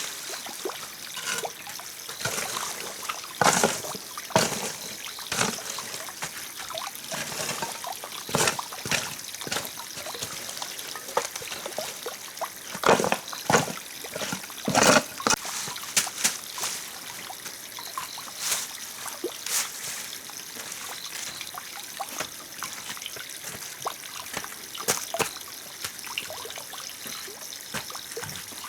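Water trickling, with irregular splashes and small knocks.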